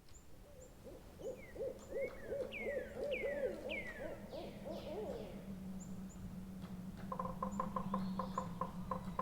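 Forest ambience: an owl gives a rapid series of wavering hoots for about four seconds, while small birds call with repeated downward-slurred whistles. About seven seconds in, a fast, even pulsing call of roughly four pulses a second starts, over a steady low hum.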